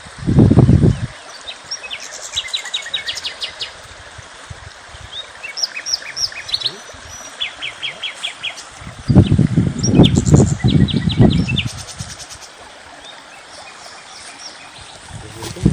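Small songbirds chirping and singing in short rapid trills and high chirps. Loud bursts of low rumbling noise come right at the start and again from about nine to twelve seconds in.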